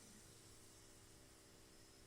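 Near silence: room tone with faint steady hiss and electrical hum.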